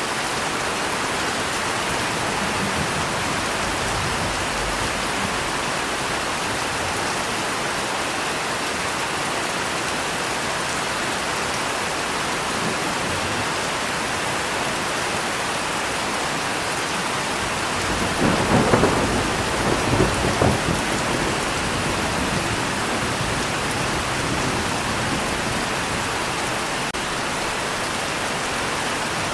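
Steady rain falling, with a clap of thunder about two-thirds of the way through that cracks and rumbles in two close bursts before the rain alone carries on.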